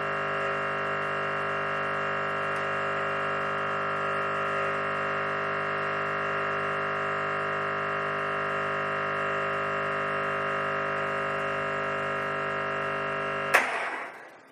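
Espresso machine's vibratory pump running with a steady, even hum while backflushing against a blanking disc with cleaner. Near the end it is switched off with a sharp click followed by a short, fading rush as the pressure vents.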